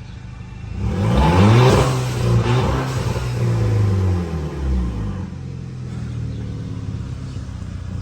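Volkswagen Golf GTI's remapped TSI turbo engine revved in several throttle blips, its pitch rising and falling, then settling back to a steady idle about five seconds in.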